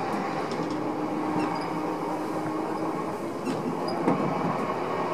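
Odakyu 1000-series electric train running on the line, heard from inside the front car: a steady rumble of wheels on rail and running noise, with a faint steady hum through the first three seconds and a few light ticks.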